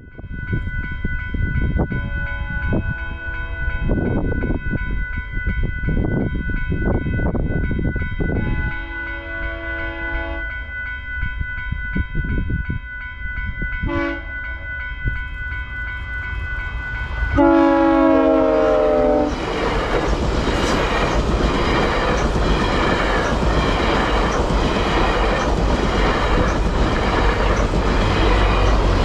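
Level-crossing warning bell ringing steadily as a GO Transit commuter train approaches, its horn sounding a long blast, a short one, then a final long, loudest blast for the crossing. About two-thirds of the way in, the train reaches the crossing and passes in a loud rumble, its wheels clacking over the rail joints about once a second.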